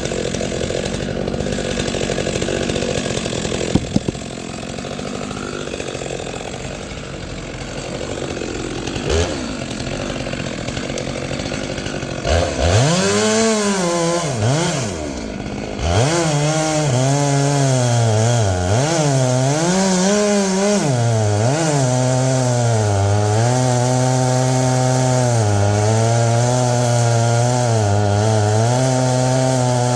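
Stihl chainsaw, with a lower steady running sound for the first dozen seconds. It then revs up and down several times and settles into a held high-speed run with small dips in pitch, cutting into ironwood.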